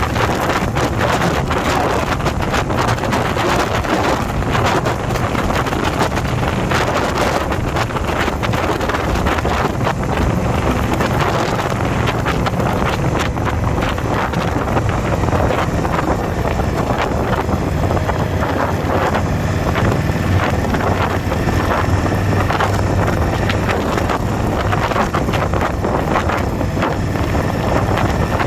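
Steady wind buffeting the microphone on a moving motorcycle, with the motorcycle's engine running underneath as a low, even drone.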